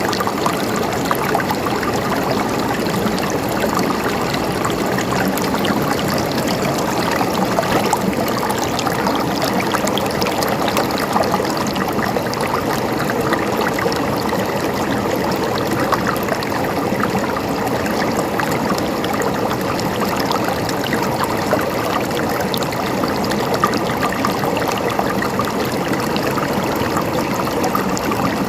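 River water flowing and splashing over rocks, a steady rush with fine bubbling and trickling.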